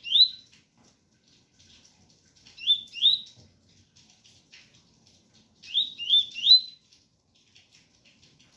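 Coleiro (double-collared seedeater) singing its 'tui-tui' song: short phrases of two or three quick rising notes, a phrase about every three seconds, the last one with three notes.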